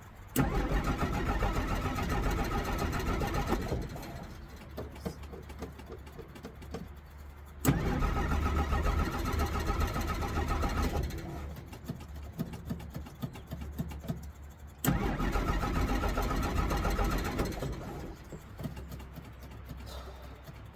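1963 Jeep Gladiator engine being cranked by the starter three times, each attempt about three and a half seconds long and a few seconds apart. It is a hard start: the engine will not catch and stay running, with a battery that is probably almost dead.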